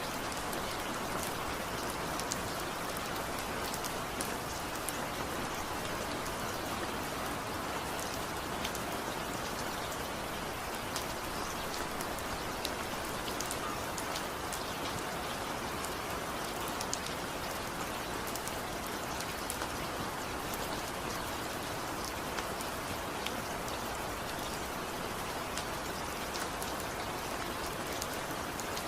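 Steady rain falling, a dense even hiss of rain on a surface with many individual drops ticking through it, without thunder.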